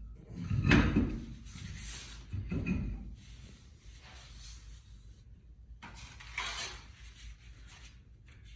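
Clatter and knocks of work on a car wheel: two heavier bumps in the first three seconds, then lighter scraping and rustling.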